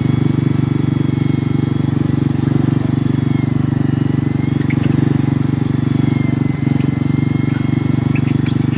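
Fishing boat's engine running steadily at speed, a loud, even drone throughout.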